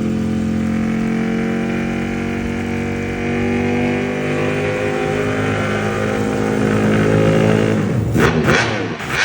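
Ducati superbike with a full racing exhaust, its engine note climbing slowly and steadily, then several quick sharp revs near the end, echoing in a tunnel.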